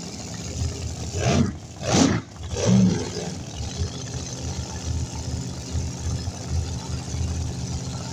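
Drag race car engine idling at the start line, revved sharply three times in quick succession between about one and three seconds in, then settling back to a steady idle.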